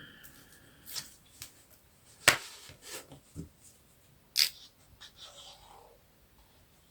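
Handling noises of crafting with paper and adhesive tape: scattered light taps and clicks with faint rustling, two sharper clicks about two and four and a half seconds in.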